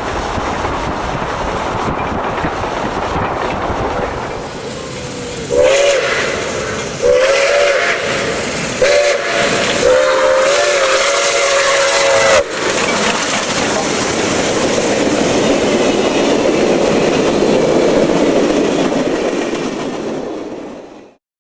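A train running past with a steady rumble while its locomotive sounds the grade-crossing signal: two long blasts, a short one and a final long one. The sound cuts off just before the end.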